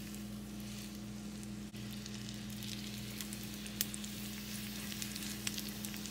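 Fish sizzling in butter and oil in a frying pan: a steady hiss with scattered small pops and crackles, over a steady low hum.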